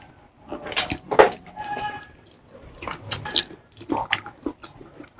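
Close-up wet mouth sounds of eating: a string of short, sharp smacks and sucking sounds spread unevenly, with a brief hum near the middle.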